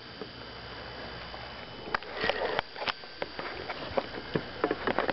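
Handling noises: scattered sharp clicks and short rustling bursts, with a sniff-like breath about two seconds in.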